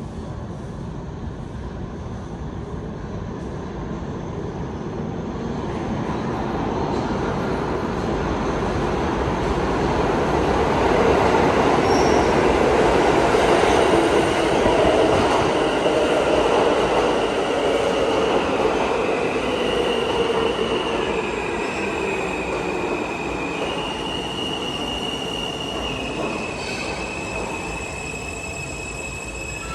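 R160 subway train running past, its rumble growing louder to a peak about halfway through and then easing. Through the second half its wheels squeal in high steady tones that step up and down in pitch.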